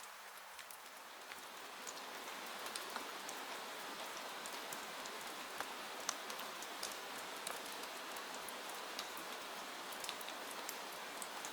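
Steady rain falling, an even hiss with scattered sharp ticks throughout, swelling slightly over the first couple of seconds.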